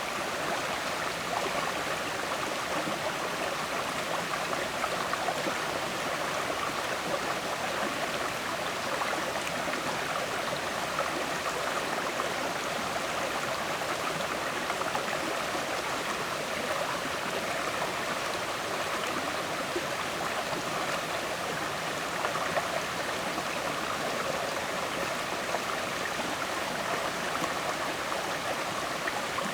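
River water flowing steadily, with a constant gurgling rush.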